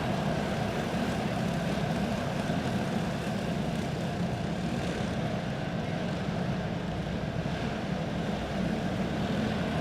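Quarter midget race cars' small single-cylinder OHV Clone engines running together at a steady, low pace as the cars come off the track after the checkered flag.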